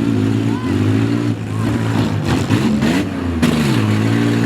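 Several demolition derby vehicles (minivans, SUVs and small trucks) with their engines revving hard, the pitches rising and falling and overlapping as they accelerate and back off.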